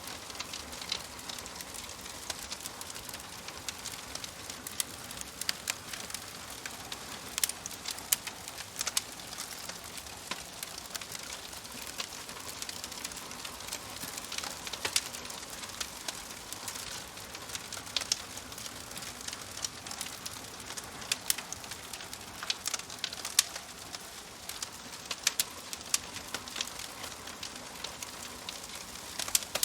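Wood fire crackling in a wood-burning stove: a steady hiss of burning with irregular sharp pops and snaps.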